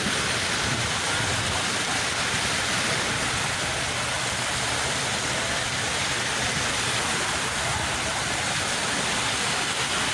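Sea waves breaking and washing on the shore, a steady, unbroken rush of surf.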